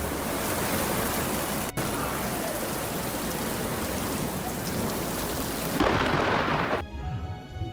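Heavy rain pouring, with a low rumble of thunder underneath. About six seconds in the rain swells briefly, then gives way to a quieter, thinner rain sound.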